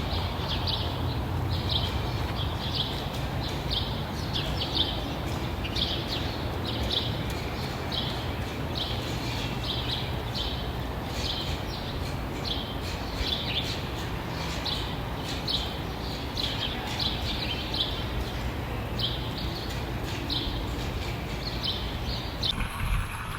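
A bird chirping over and over, short high notes about once or twice a second, over a steady low rumble.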